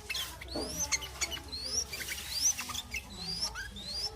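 Young yellow-vented bulbuls chattering: a busy stream of short, sharp chirps with a thin rising whistle about every second.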